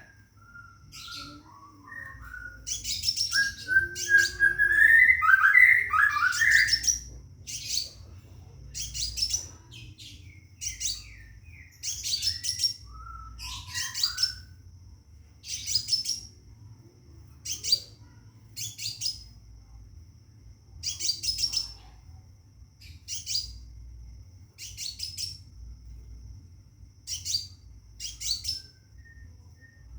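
Scarlet minivet calling: a short, high, bright call repeated about once a second. Lower rising whistled notes come in for a few seconds near the start and briefly again in the middle. The uploader takes the calls for a male calling a female to mate.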